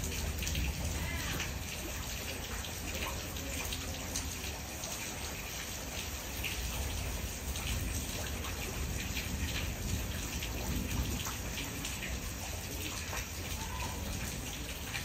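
Steady rain falling, with many separate drops striking close by over a steady low rumble.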